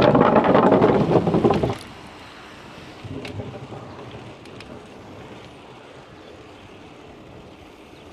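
Wind buffeting the microphone of a camera on a moving bicycle: a loud gust for the first couple of seconds cuts off sharply, leaving a quieter steady rush of air.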